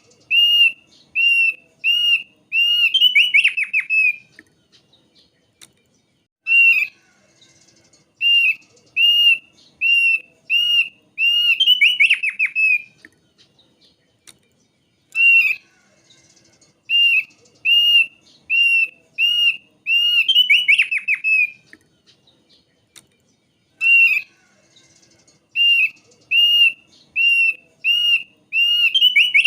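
Thick-billed white-eye singing: four bouts, each a series of clear arched whistled notes about two a second that ends in a quick tumbling burst, with short pauses between bouts.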